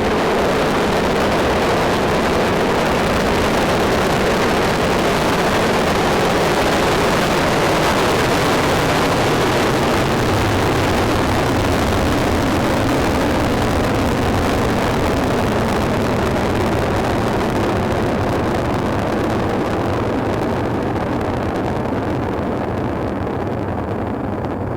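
Soyuz-FG rocket's kerosene-fuelled RD-107A/RD-108A engines roaring at launch: a dense, steady rumble that sets in sharply, with its hiss thinning out in the second half as the rocket climbs away.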